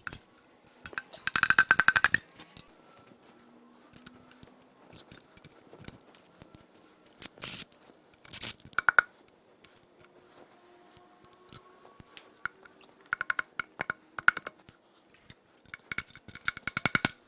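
Hand tools working metal parts inside a torn-down 5.7L Vortec V8: three short runs of rapid metallic clicking, about a second in, near the middle-end and near the end, with scattered clinks of metal on metal between them.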